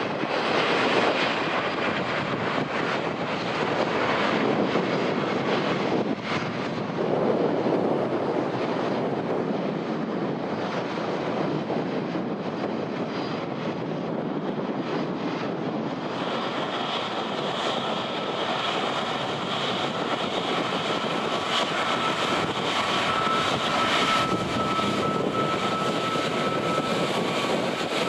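Aircraft engines running, heard through gusting wind on the microphone. About halfway through, a steady high whine comes in on top of the engine noise.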